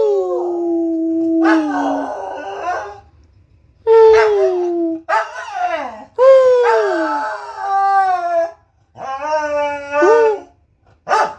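Corgi howling in a series of about five drawn-out howls, each sliding down in pitch, with short pauses between them, and a quick yelp right at the end.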